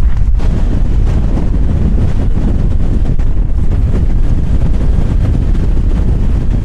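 Strong gusting wind buffeting the microphone: a loud, continuous low rumble with no letup.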